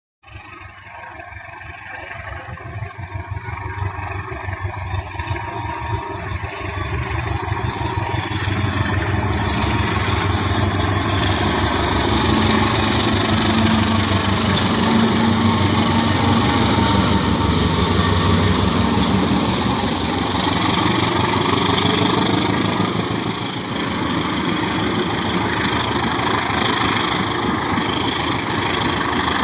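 Diesel-locomotive-hauled passenger train approaching and passing: a steady engine drone grows louder over the first several seconds, then rapid wheel clatter on the rails continues as the train goes by.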